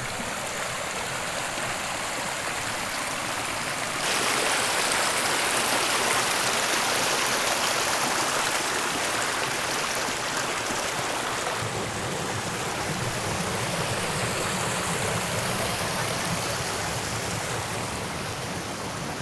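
Rushing water of a stream: a steady wash of noise that gets louder about four seconds in and shifts again near twelve seconds.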